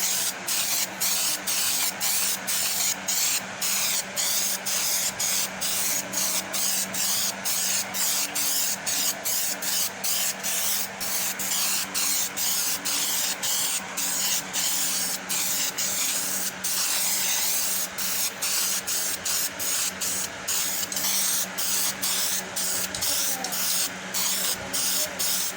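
Primer being sprayed onto a car door panel: a steady hissing spray broken by short pauses two or three times a second, with a low steady hum underneath.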